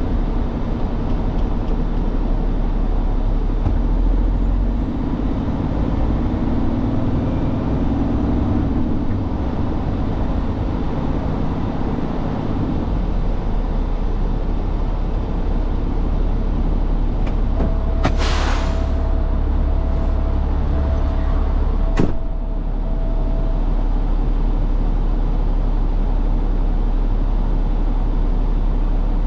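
Truck engine running steadily with a deep rumble. A little past the middle comes a short hiss of air, then a single sharp click a few seconds later.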